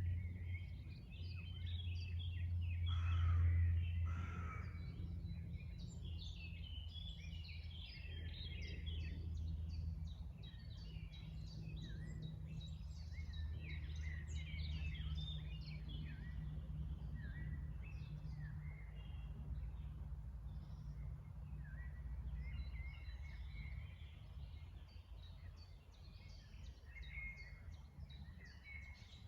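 A chorus of many songbirds chirping and trilling, with a louder lower call standing out about three seconds in, over a steady low rumble of background noise.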